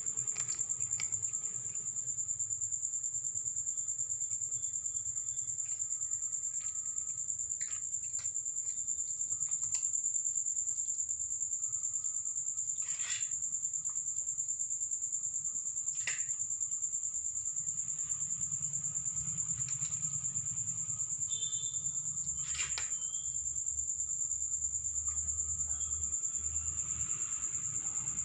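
Steady, unbroken high-pitched trill of an insect chorus, with a fainter lower drone and a few scattered sharp clicks.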